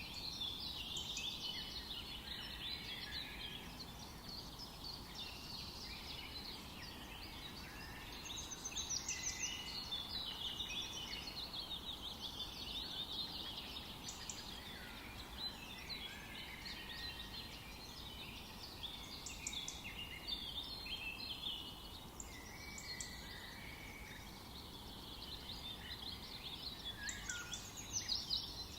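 Forest birds singing: many overlapping chirps and trills throughout, over a steady low background hiss.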